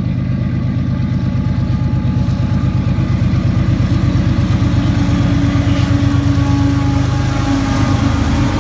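Diesel locomotives of a freight train running, a steady pulsing engine rumble that grows gradually louder, with a steady hum joining about halfway through.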